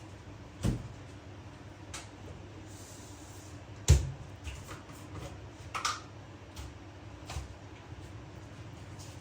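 A handful of separate knocks and clunks from household objects being handled, such as a cupboard door or items set down, over a steady low hum. The sharpest knock comes about four seconds in.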